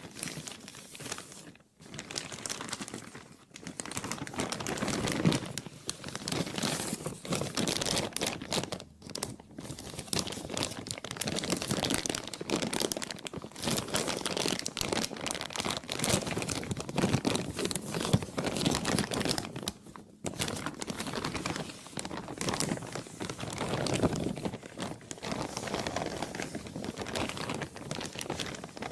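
Plastic being crumpled and crinkled by hand, a dense crackling rustle with a few brief pauses.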